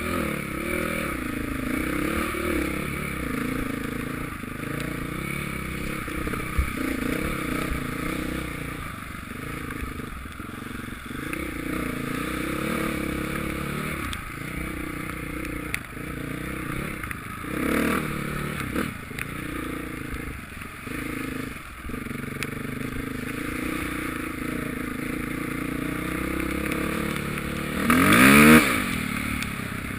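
Motocross motorcycle engines running and revving, their pitch rising and falling as the bikes change speed. Near the end one engine gets much louder with a sharp rise in pitch.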